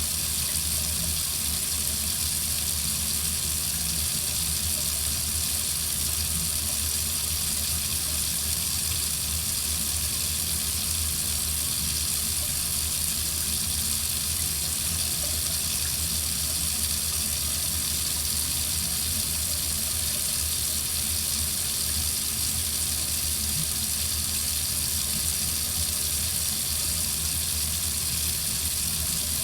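Water running from a faucet in a steady, unbroken stream.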